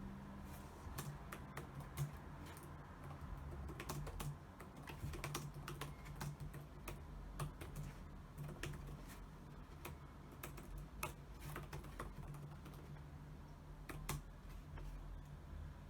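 Fingers typing on a computer keyboard: irregular runs of quick keystroke clicks with short pauses between them, over a low steady hum.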